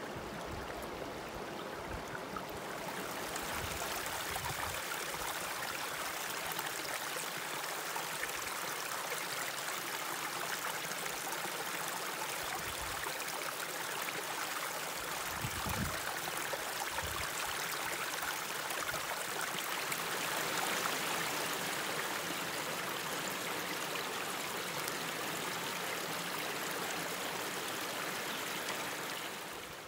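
Mountain stream running steadily. The wash of water grows louder about three seconds in and drops away at the very end.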